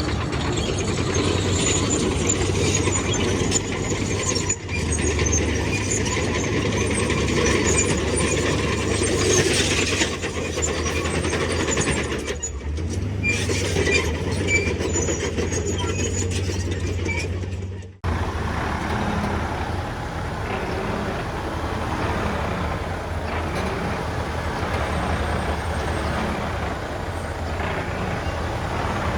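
Heavy diesel earthmoving machinery running, with metallic clanking and squeaking over a low engine drone. About eighteen seconds in, the sound cuts abruptly to a different, steadier engine sound.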